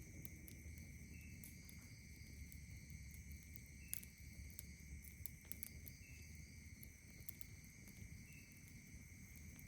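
Night insects trilling steadily, with a short chirp repeating every two seconds or so and a few sharp crackles from a campfire, the loudest about four seconds in.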